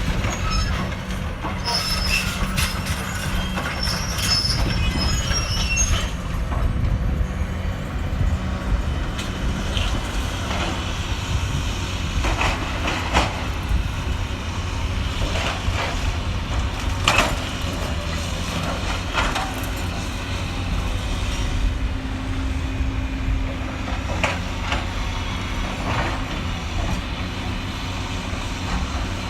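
Cat 320D excavator's diesel engine running steadily under load, with sharp cracks and metallic squeals and scrapes as it breaks up a building. The squeals come mostly in the first few seconds; the cracks come every second or two after that.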